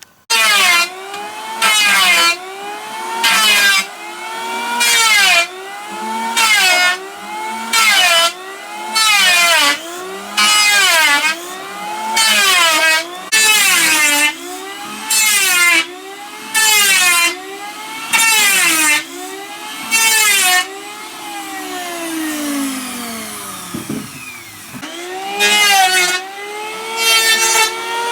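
Power wood planer cutting log in quick repeated passes, about one every one and a half seconds. The motor's pitch dips under each cut and recovers between them. About two-thirds of the way through, the motor winds down to a stop and then starts up again and resumes cutting.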